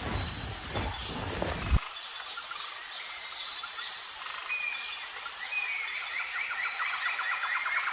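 Outdoor ambience of insects chirping and birds calling, with a steady high-pitched insect whine. A low rumbling noise under it stops abruptly about two seconds in.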